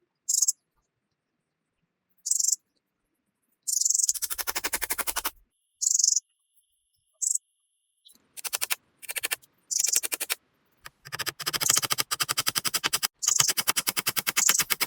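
Rapid ratcheting rasps in about ten short bursts separated by silence, the later bursts longer, the last two lasting over a second each.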